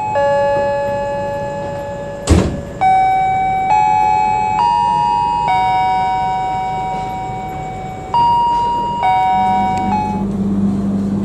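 A slow chime melody of sustained, bell-like notes played over a public address speaker, each note ringing out and fading. A single sharp knock about two seconds in, and a steady low hum that starts near the end.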